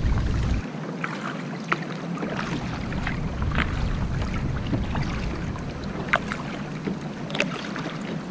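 Small water splashes and drips around a sit-on-top kayak, irregular and sharp, with wind rumbling on the microphone for the first half second or so.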